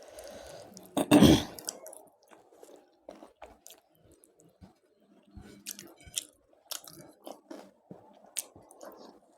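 A person chewing food up close, with one loud crunchy bite about a second in, then quieter chewing with scattered small mouth clicks.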